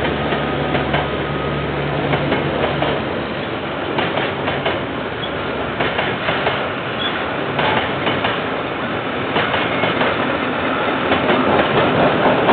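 Train passing on the rails, its wheels clacking over the rail joints, with a low steady engine hum in the first few seconds; it gets louder near the end.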